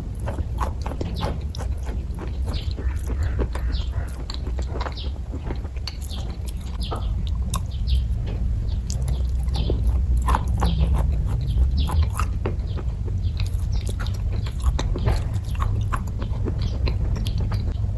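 Close-up chewing and biting of kaju katli (cashew fudge): many soft, irregular mouth clicks and smacks over a steady low rumble.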